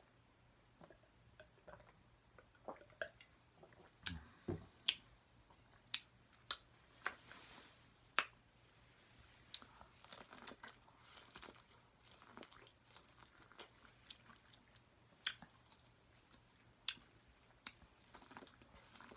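A person chewing and biting food close to the microphone, with wet mouth clicks and smacks; the sharpest clicks come between about four and eight seconds in.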